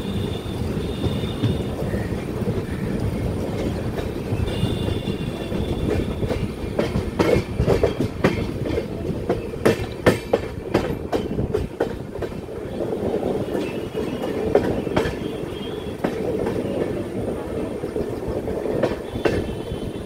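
Indian express train running, heard from an open coach doorway: a steady wheel rumble, with a dense burst of clickety-clack over the rail joints through the middle. A faint high wheel squeal comes and goes a few times as the coaches take the curve.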